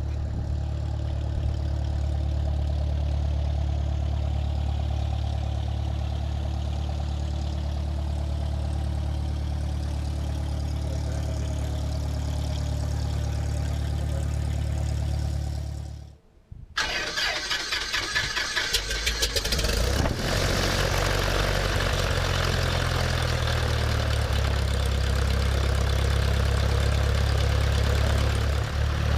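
Cessna 172's piston engine and propeller running steadily. About halfway through the sound cuts off abruptly, then comes back as an uneven pulsing that settles into a steady run after a few seconds.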